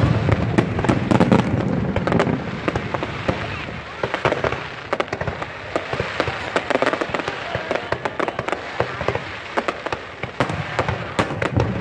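Aerial fireworks bursting overhead: a dense barrage of booming shells and rapid crackling stars. The booming eases off about four seconds in, leaving mostly quick pops and crackle, and builds again near the end.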